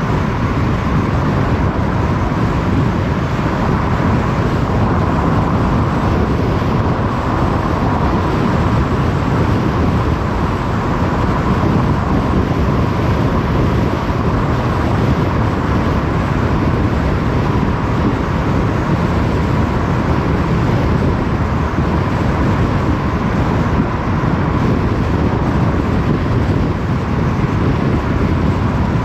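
Steady road noise of a car driving: tyre and engine rumble with a thin, even whine above it.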